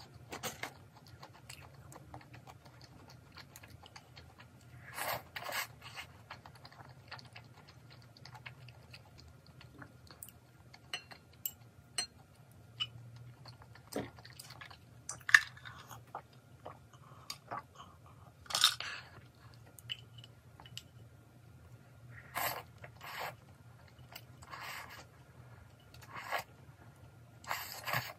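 Close-miked chewing of crispy fried chicken, with short crunching bites every few seconds and a sip from a bowl near the end.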